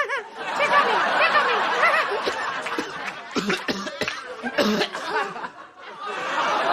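Studio audience laughing, many voices together, with a few sharp claps or knocks a little past the middle and the laughter swelling again near the end.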